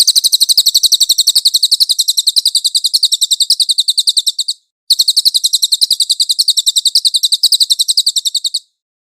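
Cililin bird singing a rapid trill of sharp, high notes, about a dozen a second. The trill breaks off briefly about four and a half seconds in, then resumes and stops shortly before the end.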